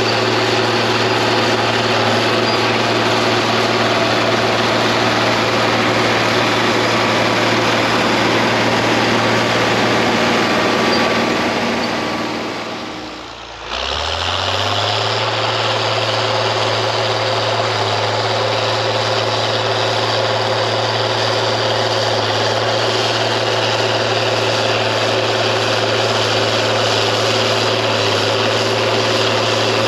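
International TD15C bulldozer's DT466 six-cylinder diesel running steadily. About halfway through the sound sags and drops in pitch, then the engine quickly revs back up and runs on as before.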